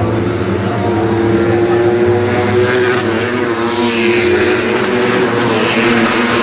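Cub Prix racing motorcycles (underbone race bikes) with engines running at steady pitch, growing louder from about halfway through as the bikes come closer.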